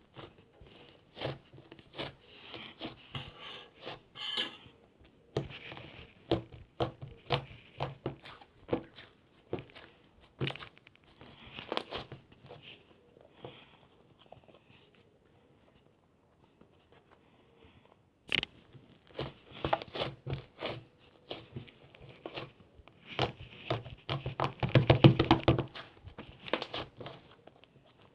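Clay slime being squeezed, pressed and poked by hand, giving irregular crackling clicks and small squishes. The sounds thin out to a lull midway, then come thick and loudest near the end.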